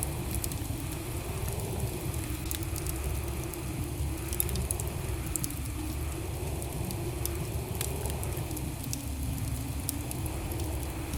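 Wood fire burning in a fireplace: a steady low rumble of flame with scattered sharp crackles and pops of burning logs.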